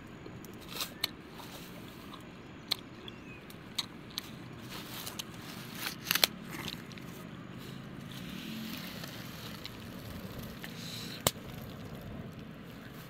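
Irregular sharp clicks and crackles, about a dozen scattered through, over a steady low background noise.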